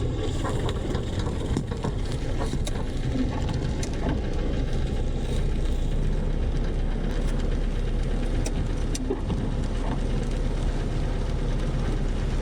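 A rainstorm with wind on the microphone: a steady, deep noise with scattered sharp ticks of drops striking.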